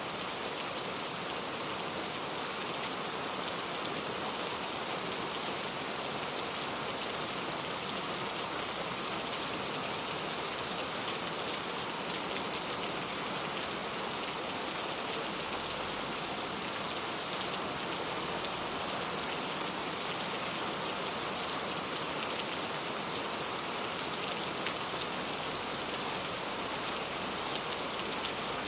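Steady rain falling, a continuous even patter of drops with fine drop ticks throughout.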